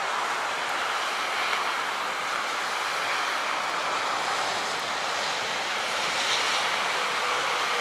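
Volvo FH16 750 10x4 heavy haulage truck and its multi-axle trailer rolling past, a steady roar of tyres and engine.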